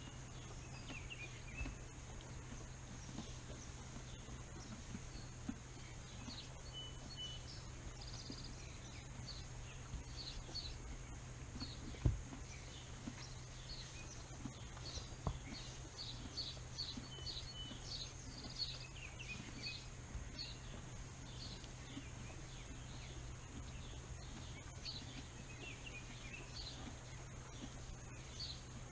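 Small birds chirping in short, repeated calls over a steady low hum, with a dull thump about twelve seconds in and a lighter one a few seconds later.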